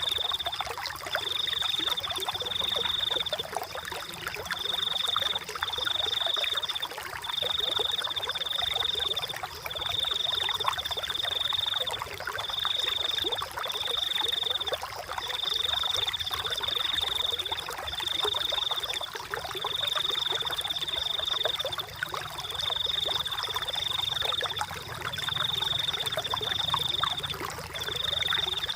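Flowing water with an animal's high, even-pitched trill repeated over and over, each trill lasting about a second with short gaps between.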